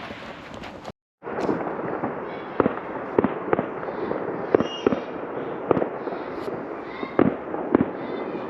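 Distant fireworks going off: a string of irregular bangs and pops over a steady crackling hiss. The sound cuts out completely for a moment about a second in.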